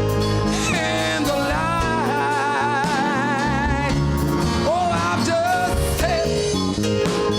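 Gospel song with instrumental backing: a solo voice holds long notes with vibrato, with gliding runs between them.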